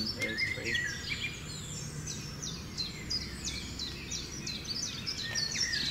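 Rainforest birds calling: a run of quick, high chirps, each dropping sharply in pitch, repeating several times a second, over a faint steady low hum.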